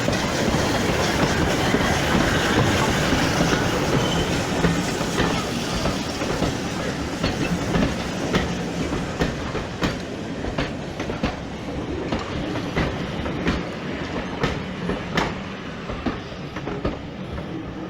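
A train running past on jointed track: a steady rumble of wheels and carriages, then wheels clicking over the rail joints about once or twice a second as it draws away and the sound slowly fades.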